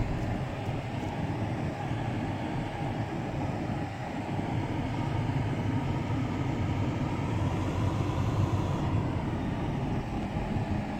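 Steady road and engine noise inside the cabin of a moving car, a low, even rumble.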